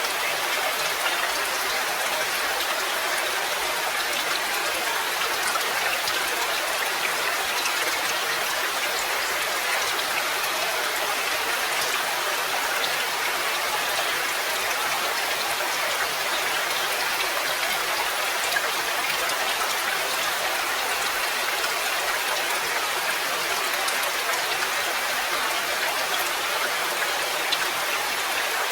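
Steady rain: an even hiss of falling rain, with scattered faint droplet ticks and no change in strength.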